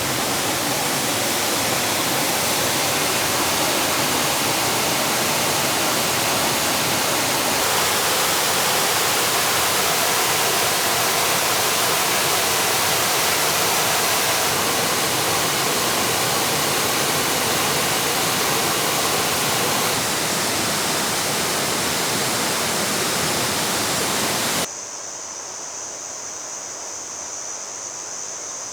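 A small waterfall's water rushing steadily in a dense, hissing wash. It shifts in tone twice and drops noticeably quieter near the end.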